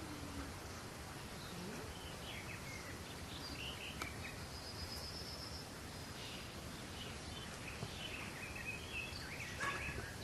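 Small songbirds chirping in short calls, with a brief high trill about five seconds in and a livelier run of chirps near the end, over a steady outdoor background hiss.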